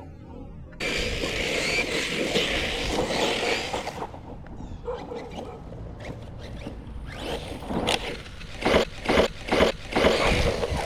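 Team Corally Kagama 6S electric RC car driving hard over dirt and gravel, its tyres scraping, then a series of hard knocks over the last few seconds as it lands or crashes, hard enough that a differential may have broken.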